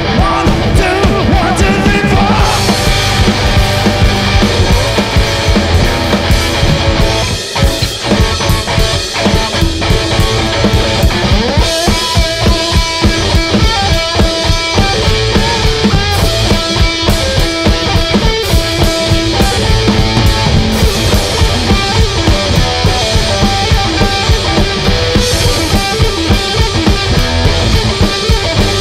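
A garage-punk rock band playing live, a drum kit driving a steady beat under loud, dense instruments. The music drops back briefly about a quarter of the way in, then carries on.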